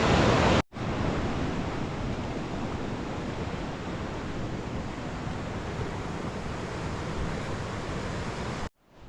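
Steady rushing of a mountain stream or waterfall, starting abruptly just under a second in and cutting off near the end.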